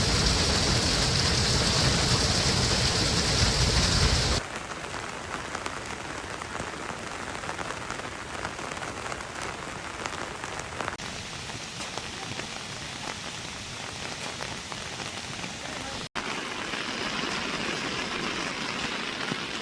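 Heavy rain falling in a steady hiss, louder for the first few seconds and then settling to a lower level.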